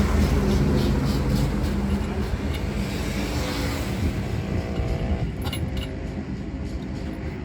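Motor vehicle engine running, its sound slowly fading away, with a few light clicks in the second half.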